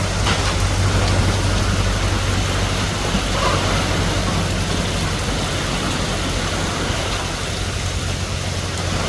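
Heavy rainstorm: a steady downpour, with a low steady hum underneath.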